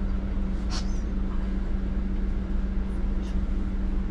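Transit bus running, heard from the driver's seat: a steady low rumble with a constant hum. Two brief high squeaks come through, about a second in and again after three seconds.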